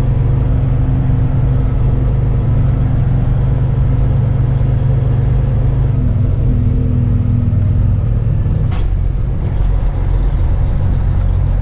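Semi truck's diesel engine running at low speed, heard from inside the cab, with its pitch shifting a little as it crawls over a rough, potholed lot; a single sharp knock near nine seconds in.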